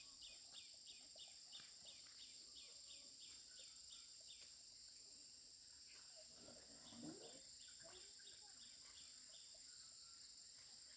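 Faint insect chorus: a steady high buzz with a cricket-like chirp repeating about three times a second. The chirping stops a little after four seconds in and resumes about two seconds later, with a brief faint low call near its return.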